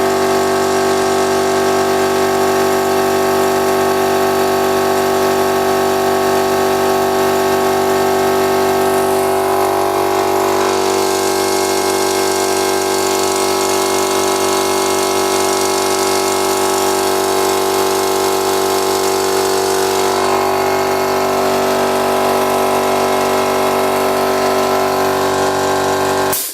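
Stabilo 200/8/24 oil-lubricated piston air compressor running steadily as it pumps up its 24-litre tank, then cutting out suddenly near the end as the tank reaches its cut-out pressure.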